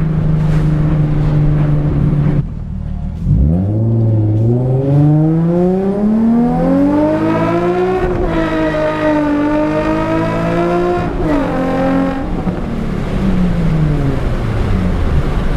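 Infiniti G37's V6 engine under way. It holds a steady note, drops briefly about two and a half seconds in, then revs up in one long climb in pitch. It levels off, breaks again near eleven seconds, and falls steadily in pitch as the car slows near the end.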